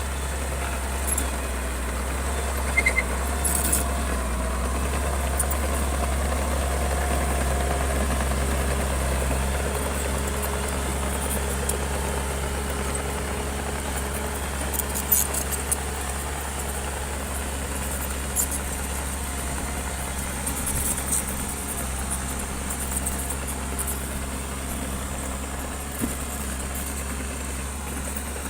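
Bulldozer's diesel engine running steadily at work, with a faint whine that wavers through the middle and occasional sharp metallic clicks.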